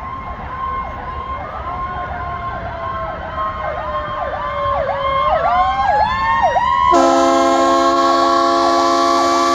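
Fire truck sirens sounding together, a slow wail sweeping down and back up over a fast repeating yelp, growing louder. About seven seconds in, a loud air horn blast cuts in and holds.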